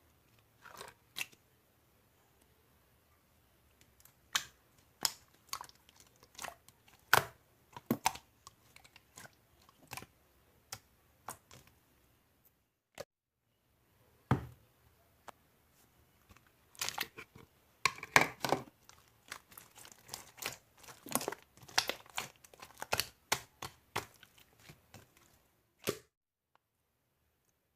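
Frozen strawberry konjac ice being eaten up close: irregular crisp crunches and crackles, scattered at first, then a dense run through the second half, with a pause in between.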